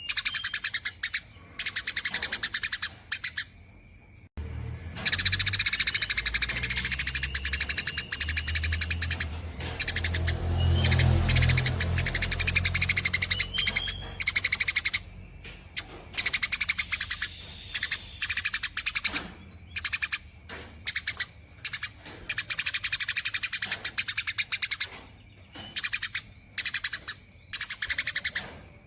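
Eurasian tree sparrow chattering in long, rapid runs of high chirps broken by brief pauses. A low rumble sits underneath for several seconds in the first half.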